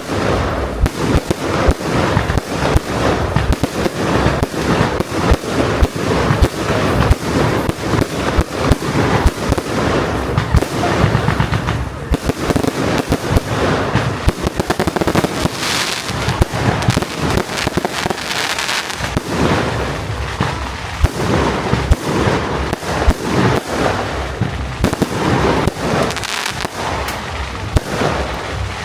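Fireworks display: a dense, continuous barrage of bangs and crackles, loud and without a pause.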